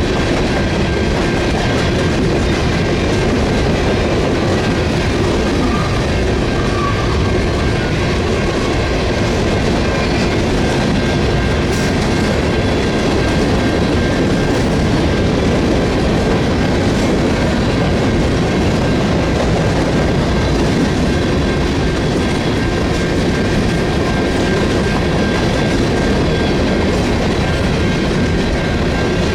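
Railroad cars of a passing train rolling by close at hand, a loud, steady rumble of steel wheels on rail with a faint high ringing held throughout.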